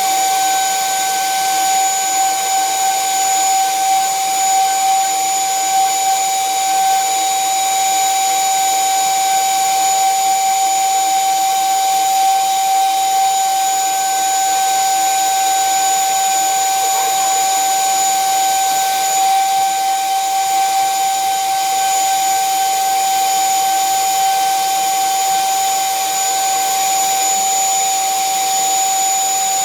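Electric drill running steadily without a break, a constant whine over a hiss, as it cuts a headlight hole through steel.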